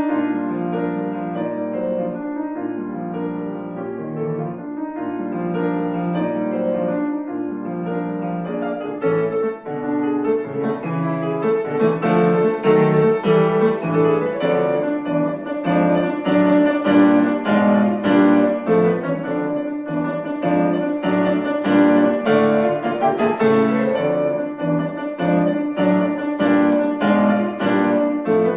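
Acoustic piano playing a classical piece. About ten seconds in, after a brief dip, it grows louder, with denser, quicker notes.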